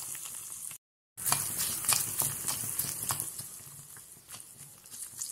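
Sliced ginger, dal and a dried red chilli frying in sesame oil in a kadai, sizzling, while a metal spoon stirs and scrapes against the pan with short clinks. The sound cuts out for a moment about a second in.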